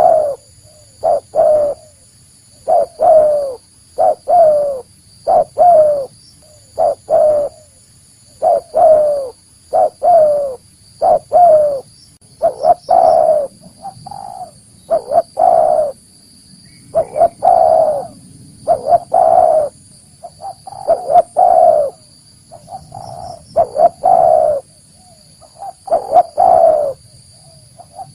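Spotted dove cooing: a long run of short, mellow coo notes, many dipping slightly in pitch, repeated in phrases with brief pauses between them. A faint steady high hum runs underneath.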